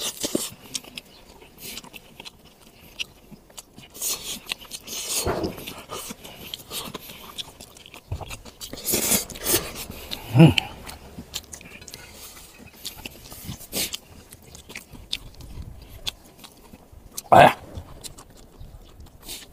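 A man eating grilled fish with his fingers: close-up chewing, lip-smacking and sucking the meat off small bones, with a few short vocal sounds now and then.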